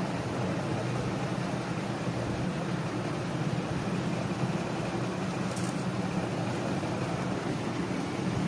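Steady, unchanging hum with a noisy hiss and no clear events, like a fan or machine running, with a brief faint high tick a little past halfway.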